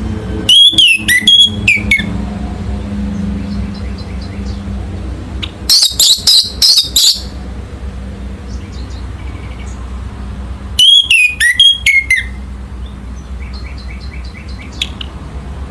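Orange-headed thrush singing: three loud phrases of quick, slurred whistled notes, about five seconds apart, with fainter chirps in between.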